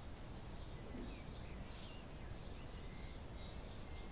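A small bird chirping faintly and steadily, a short high chirp about twice a second, over quiet room tone.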